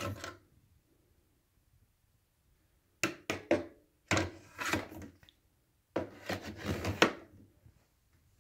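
Hard plastic parts of an upright vacuum being handled, with no motor running: a short clatter at the start, then three clusters of clicks, knocks and rubbing about 3, 4 and 6 seconds in.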